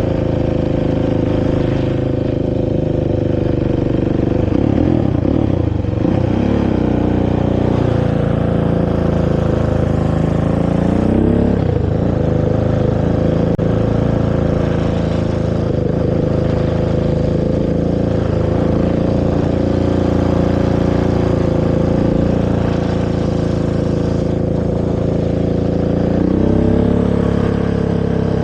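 Honda TRX450R quad's single-cylinder four-stroke engine running through its stock exhaust under riding throttle, the pitch dropping and climbing again a few times.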